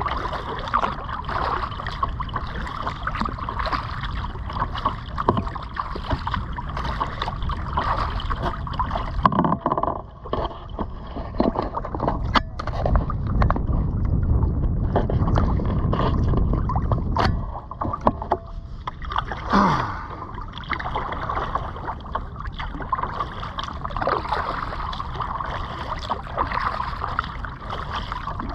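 Kayak paddle strokes dipping and splashing in the water, in a steady run of repeated strokes.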